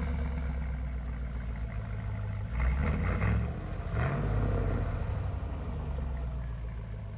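Pickup truck engine running steadily, with brief louder surges about three and four seconds in.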